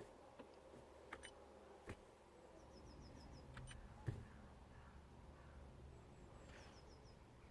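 Near silence, with a few faint clicks and two short runs of faint, high chirping ticks.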